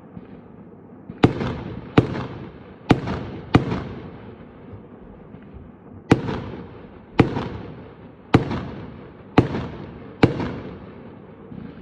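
Fireworks exploding: about nine sharp bangs, unevenly spaced, each fading out in a trailing echo.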